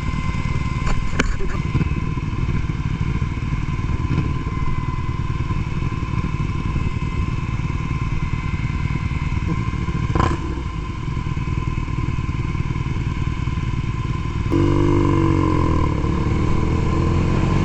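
BMW R nineT Pure's air-cooled boxer twin, fitted with a ZARD aftermarket exhaust, running at a steady ride speed, with a brief knock about ten seconds in. Near the end it gets louder as the bike accelerates, the engine pitch rising and falling with the revs.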